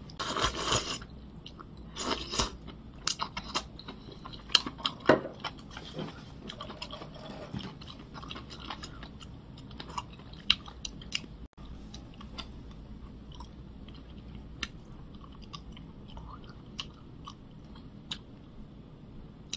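A person chewing food close to the microphone: wet mouth clicks and small crunches, with two louder noisy bursts in the first few seconds, then quieter steady chewing.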